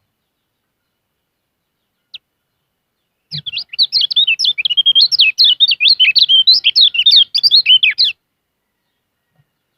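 Kecial kuning songbird singing a fast, loud run of high, quickly varied chirps and twitters for about five seconds, starting about three seconds in after a single short chirp.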